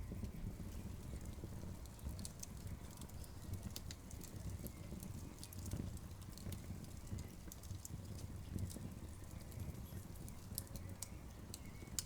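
Wood campfire crackling: irregular sharp pops and snaps, several a second at times, over a low steady rumble of the burning fire.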